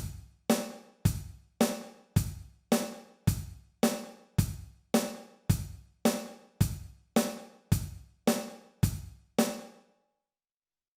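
Boss DR-01S rhythm machine playing a simple preset percussion pattern: single drum strokes just under two a second, alternating deeper and lighter, each ringing briefly. The pattern stops abruptly near the end.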